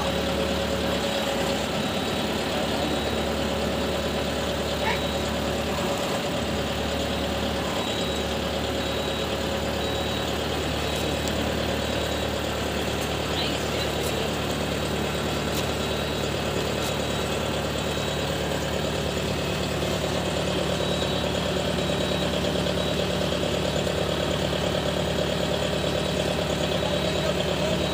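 Farm machinery's diesel engine running steadily, with a slight rise in the low hum partway through.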